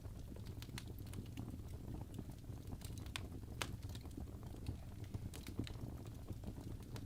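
Wood fire crackling in a fireplace: irregular sharp snaps and pops of burning logs, a few louder ones, over a steady low rumble of the flames.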